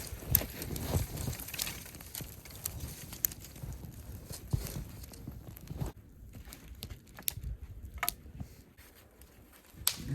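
Footsteps crunching in snow, irregular, fading after about six seconds, followed by a few sharp snaps.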